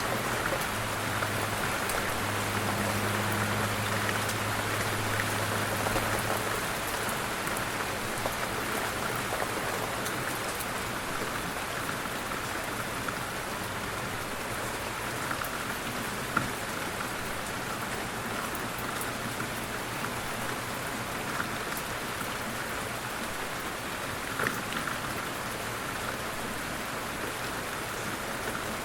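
Light rain falling steadily, an even hiss with single drops ticking now and then. A low steady hum sits under the rain for the first six seconds or so, then fades.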